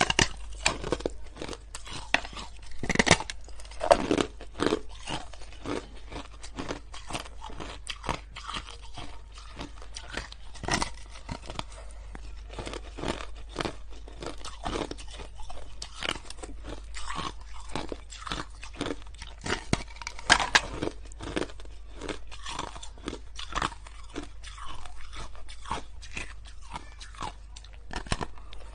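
Someone chewing crunchy ice close to the microphone: a continuous run of irregular sharp crunches and crackles with no pause.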